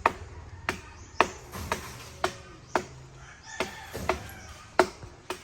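A blade chopping into wood: a rapid, irregular series of sharp strikes, about two a second, some with a short ringing tail.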